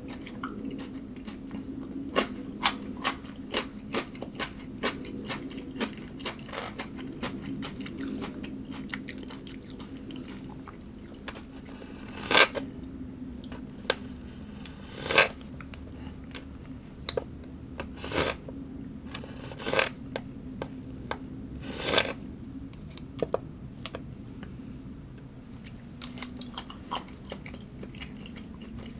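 A person chewing and crunching food up close: a run of quick, crackly chews, then about five louder crunching bites a few seconds apart. A steady low hum runs underneath.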